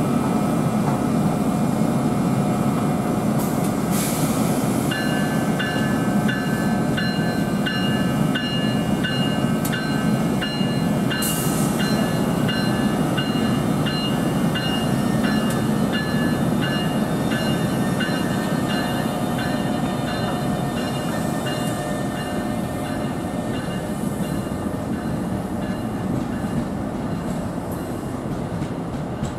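Commuter train rumbling steadily along the track, with a bell starting about five seconds in and ringing in a steady rhythm. The train gradually gets a little quieter toward the end.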